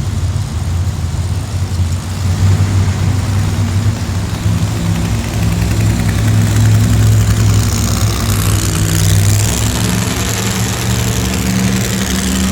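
Monster truck engine running at a lumpy idle and revving lightly, its deep note stepping up and down in pitch.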